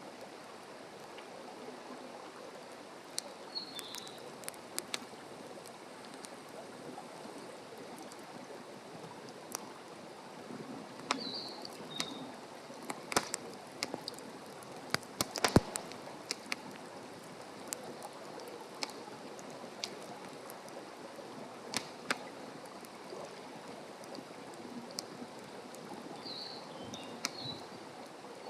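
Wood campfire crackling over a soft steady hiss, with irregular sharp pops, the loudest about halfway through.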